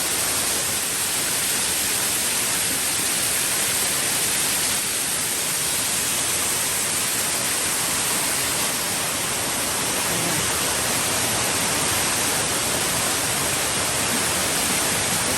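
Small waterfall cascading, heard up close: a steady, unbroken rush of falling water, full from the recent rain.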